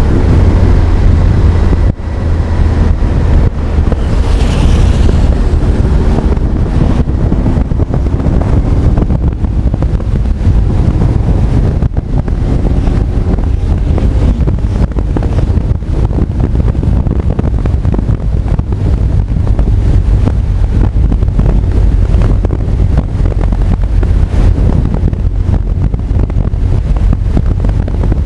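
Wind rumbling over the microphone of a riding Honda CB1300 Super Bol d'Or, with the bike's inline-four engine beneath, its note rising and falling in the first ten seconds or so, then steady.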